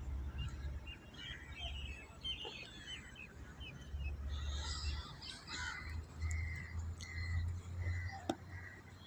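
Birds chirping at dawn, many short calls overlapping, with a run of repeated short notes in the second half. A low rumble comes and goes underneath, and there is a sharp click just before the end.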